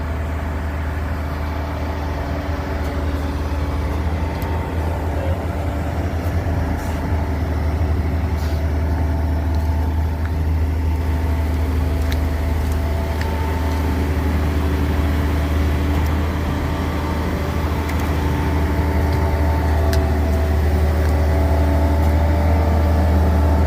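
Concrete pump truck's diesel engine running steadily under load, a deep hum with engine tones above it, growing slowly louder, with a few sharp clicks in the second half.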